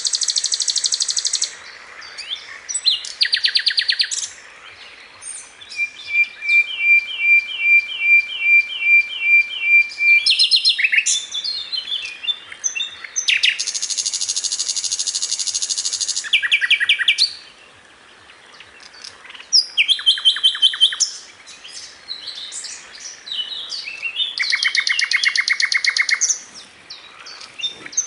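Sikatan londo flycatcher singing a long, varied song in full voice: high, fast trills, a run of about ten evenly repeated notes, and quick chattering phrases, with brief pauses between bouts.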